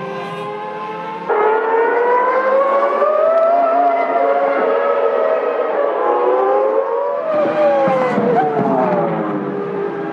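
Formula One cars' 3.0-litre V10 engines screaming at high revs. The pitch climbs slowly through a long pull, then drops in steps as the cars brake and downshift near the end. It gets suddenly louder about a second in.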